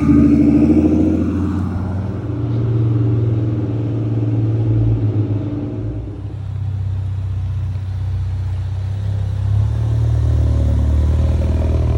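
Car engine running with a steady low drone, with some changing higher engine tones in the first half.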